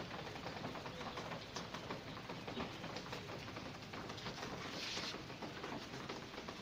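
Steady rain falling and pattering, with a bird calling. About five seconds in there is a brief, brighter hiss.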